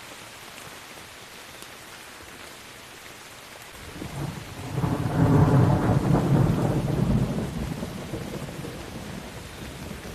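Steady rain, with a roll of thunder starting about four seconds in: a deep rumble that swells to its loudest a second or two later and fades slowly.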